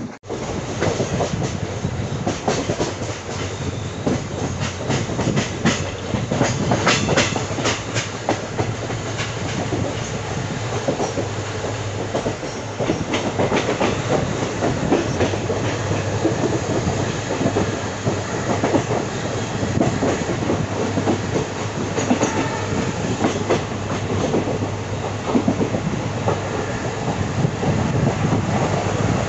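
Passenger train coaches running along the track, wheels clattering over rail joints in an irregular run of clicks over a steady rumble.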